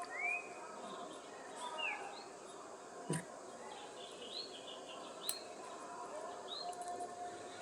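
A bird chirping repeatedly in the background, short rising-and-falling chirps every second or so. There are two sharp clicks, one near the middle and one a couple of seconds later.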